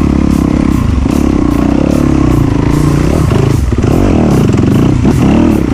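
Off-road dirt bike engine running under load, its pitch rising and falling repeatedly as the throttle is worked.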